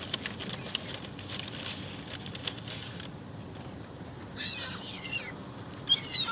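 Birds squabbling over food: scattered rustling and clicks of wings and feet over the first three seconds, then two bursts of high, rapidly wavering calls about four and a half and six seconds in, the loudest sounds.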